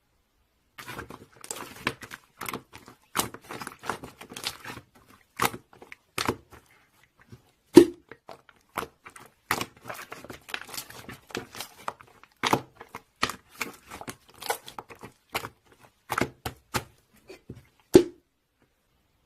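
Plastic wrapping being handled, crinkling and crackling in irregular bursts with many small clicks, and two louder knocks, one about halfway through and one near the end.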